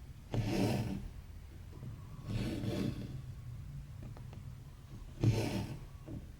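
Cross-stitch thread drawn through the fabric, a short rasping pull about every two and a half seconds, three times, over a steady low hum.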